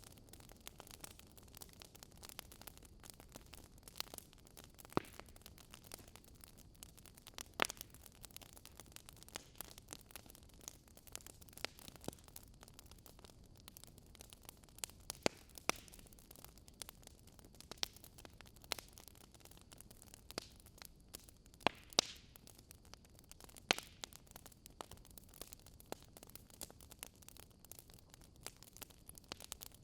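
Wood fire crackling: irregular sharp pops and snaps, a few seconds apart, over a soft steady hiss.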